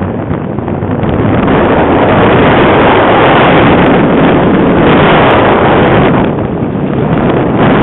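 Heavy wind buffeting the microphone: a loud, rushing rumble that swells after about a second and dips briefly near the end.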